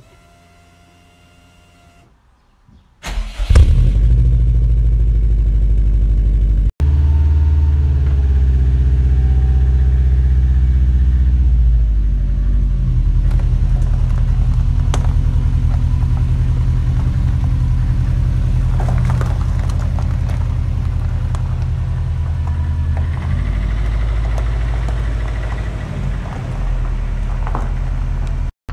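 2005 Subaru Impreza WRX STI's turbocharged flat-four boxer engine starting about three seconds in, then idling steadily with a burbling exhaust note.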